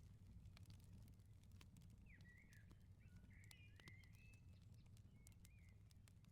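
Faint wood fire crackling, with scattered sharp pops over a low steady rumble. A bird gives a few short chirps in the middle and once more near the end.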